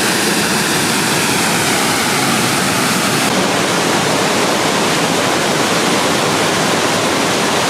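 Waterfall pouring down into a pool: a loud, steady rush of falling water with no breaks.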